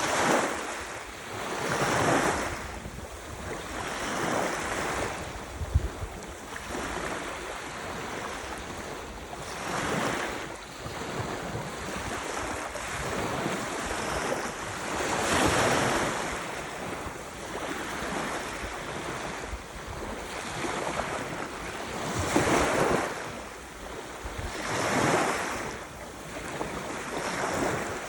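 Ocean waves breaking on the shore, the surf noise swelling and fading in surges every few seconds. A brief thump about six seconds in.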